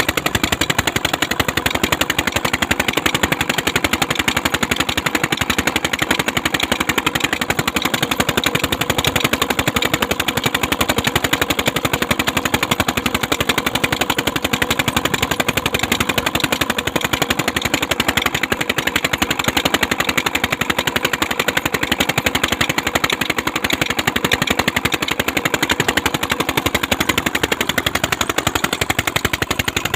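Peter diesel tube-well engine running steadily, its exhaust firing in a rapid, even beat.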